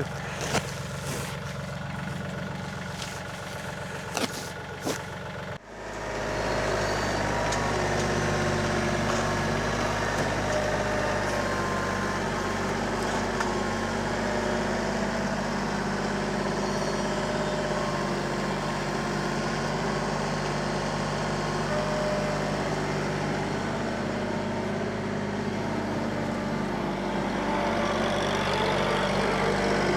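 Tractor engine running steadily, with a sudden step up to a louder, fuller sound about five and a half seconds in.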